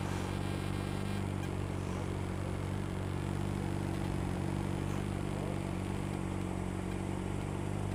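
Triumph Tiger Explorer's three-cylinder engine running steadily at a constant pitch.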